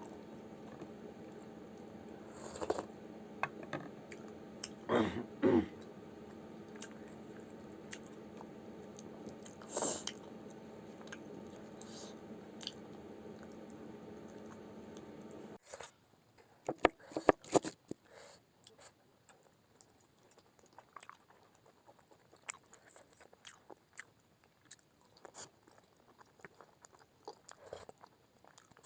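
A person eating momos close to the microphone: chewing and biting with scattered short wet clicks and smacks. A steady background hum cuts off suddenly about halfway through.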